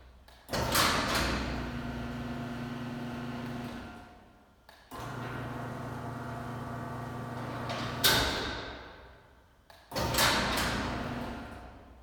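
Garage door opener running in three short stretches of steady motor hum, with loud clunks about half a second in, about 8 s in and about 10 s in. The opener's traveler is not working, which the inspector suspects is an adjustment issue.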